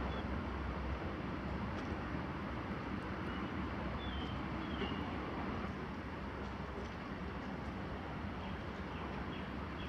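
Steady low drone of a passing inland motor tanker's diesel engine, under an even hiss, with a few short bird chirps.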